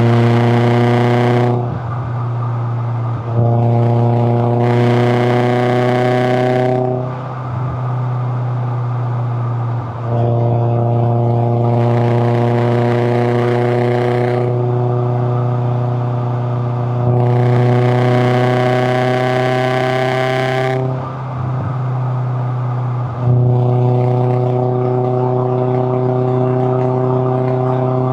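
Toyota AE86 Corolla Levin's 1.6-litre twin-cam four-cylinder (4A-GE) engine pulling on the road, its note climbing slowly under throttle. The engine sound breaks and dips briefly four times, as the throttle is lifted.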